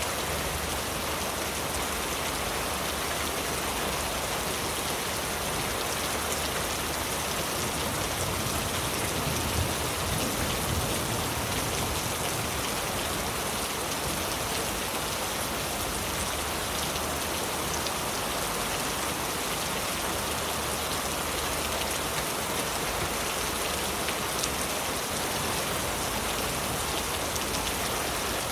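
Heavy rain falling steadily on leaves, a dense even hiss of drops.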